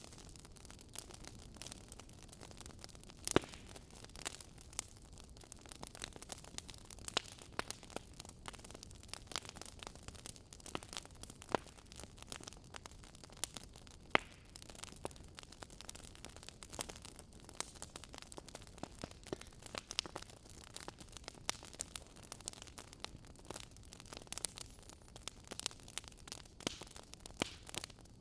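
Wood fire crackling in a fireplace: irregular small pops and snaps over a low hiss, with two sharper pops about three and fourteen seconds in.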